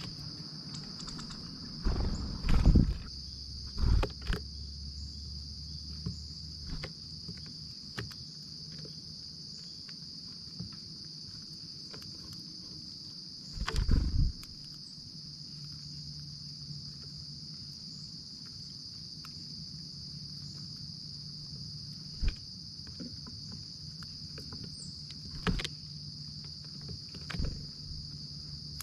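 A steady, high-pitched insect chorus of crickets trilling without pause. Several loud knocks and thumps break in: a cluster a couple of seconds in, another about halfway, and a smaller one near the end.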